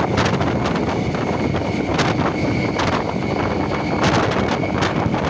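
Wind buffeting the microphone over the running noise of an electric local train moving at speed, with irregular gusts and a faint steady high whine.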